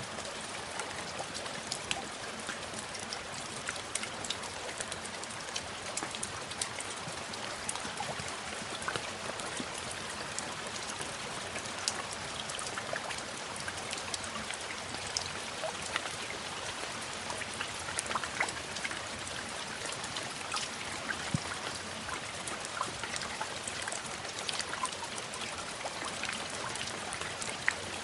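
Steady rain, a constant hiss with many scattered drop ticks.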